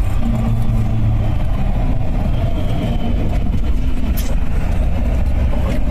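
Suzuki Samurai's engine running steadily as the small 4x4 drives along, with a continuous low drone and road noise.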